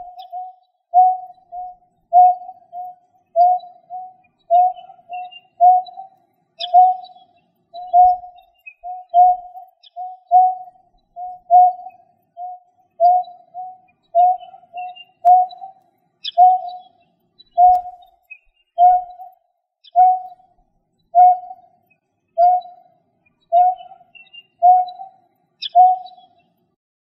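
A bird's low, hollow note repeated steadily, often in quick pairs, about one to two notes a second, with faint higher chirps now and then: a recorded call of the kind played as a lure.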